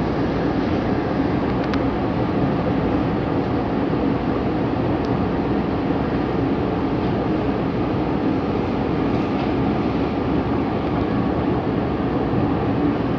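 Inside a Long Island Rail Road M3 electric multiple-unit car running at speed: a steady rumble of wheels on the rails with a constant low hum, and a faint click about two seconds in.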